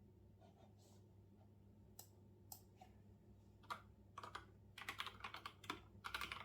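Faint typing on a computer keyboard: a few separate keystrokes, then a quick run of keys near the end.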